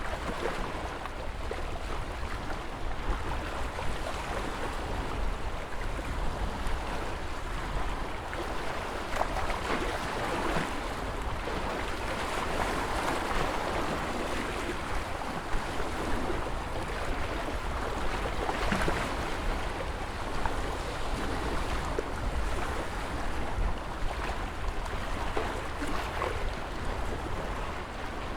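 Ocean surf: waves washing and breaking continuously, rising and falling in a few swells over a steady low rumble.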